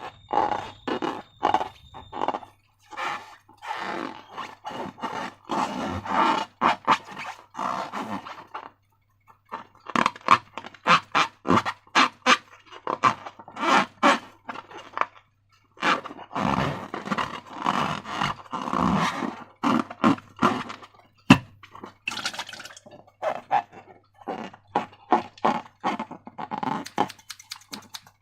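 Slime being squished and worked by hand, making irregular runs of short, wet clicks and squelches in clusters with brief pauses. A faint steady hum lies underneath.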